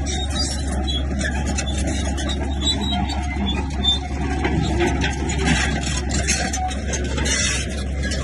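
Heavy diesel engine of a Komatsu bulldozer running steadily, with scattered knocks and clatter from the work.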